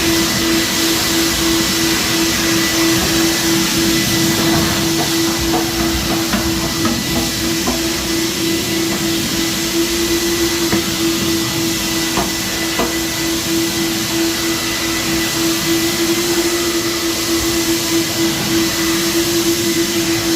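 Vacuum cleaner running steadily, a constant hum over its airflow noise, with a few faint clicks partway through.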